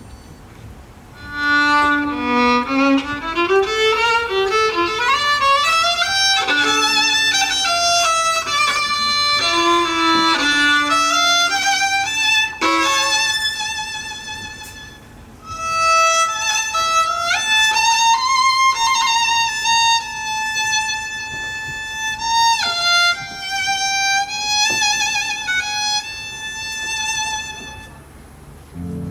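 Solo violin playing a slow melody with sliding notes and vibrato, pausing briefly around the middle before a second phrase of long held notes.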